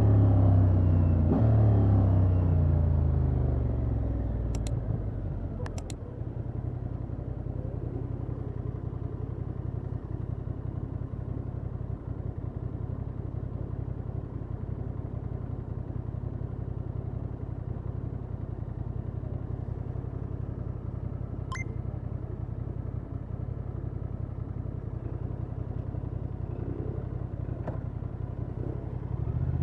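Honda XL750 Transalp's parallel-twin engine through its stock exhaust, revs falling as the bike slows over the first few seconds, with a couple of sharp clicks. It then runs steadily at low revs, and the revs pick up again near the end.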